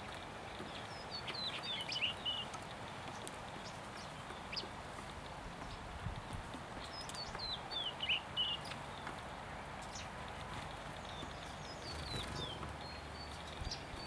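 Bird song: a short phrase of quick, high, falling chirps, heard three times about five seconds apart, over a steady outdoor hiss.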